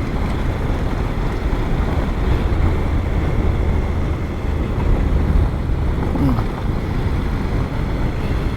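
Wind rushing over a helmet microphone with a motorcycle engine running underneath, riding along a dirt road.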